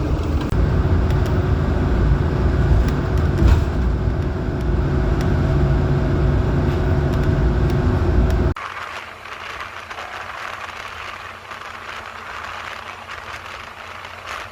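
Loud low rumble of vehicle noise, cutting off abruptly about eight and a half seconds in to a quieter, steady outdoor hiss.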